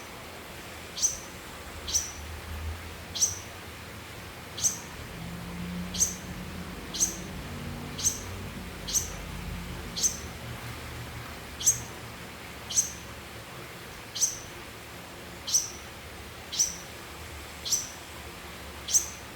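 A bird repeating a single short, sharp, high chirp about once a second, steady and evenly spaced.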